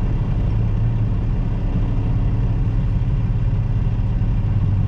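Semi-truck's diesel engine and road noise heard inside the cab while driving, a steady low drone.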